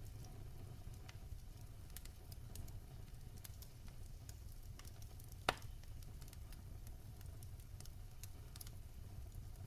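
Fire crackling in a fireplace: scattered small crackles over a low steady rumble of flames, with one sharp, louder pop about halfway through.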